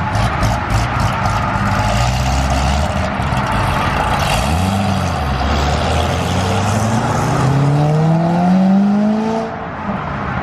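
Car engine running loudly, revving up and back down briefly about four seconds in, then accelerating hard with its pitch climbing steadily for several seconds before the throttle is let off near the end.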